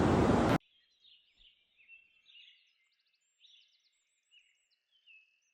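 A loud rushing noise cuts off abruptly about half a second in, leaving faint, high bird chirps and short twittering calls.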